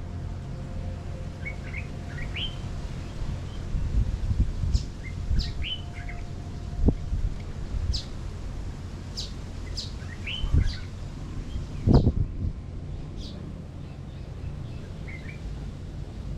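Small birds chirping: short, scattered high calls, several of them quick downward chirps. Under them runs a low rumble, with a few dull thumps, the loudest about twelve seconds in.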